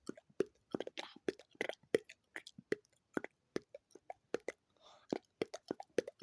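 Quick close-up ASMR clicks and taps, about five a second, with a brief breathy whisper near the end.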